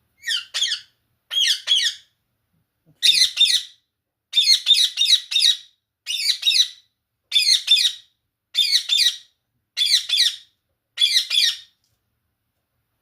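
Indian ringneck parakeet giving loud, harsh squawking calls: about nine bursts of rapid notes, each under a second long and about a second apart.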